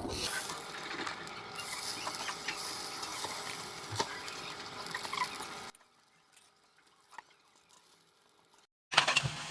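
Chicken pieces sizzling and crackling as they grill, with scattered pops. The sound cuts off about six seconds in and comes back louder near the end.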